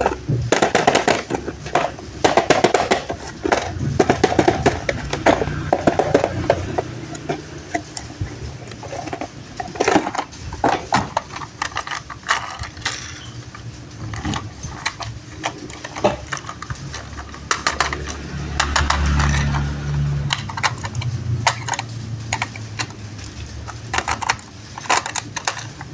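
Hands handling toy packaging and hard plastic toy parts: a long run of irregular clicks, taps and crinkly rustles, with a low rumble for a couple of seconds past the middle.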